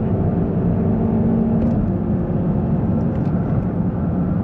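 2006 Honda Civic EX's 1.8-litre four-cylinder engine running hard at speed during a drag run, a steady loud drone over road rumble, its pitch dropping slightly about one and a half seconds in.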